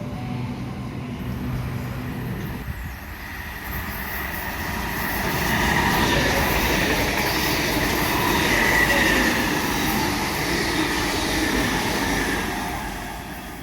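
Sydney Trains electric passenger train running through the station. It grows louder over a few seconds, holds with a high whine, then fades near the end.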